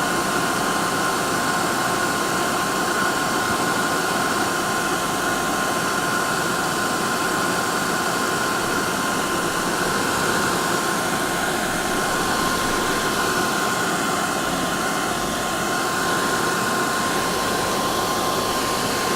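Hair dryer running steadily: an even rushing airflow with a constant whine from the motor and fan.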